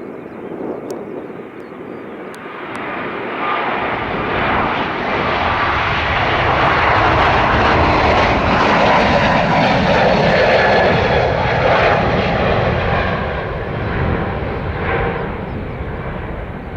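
Jet engines of a departing Airbus A321neo at takeoff power: a roar that swells over the first few seconds, stays loudest around the middle, then slowly fades as the aircraft moves away.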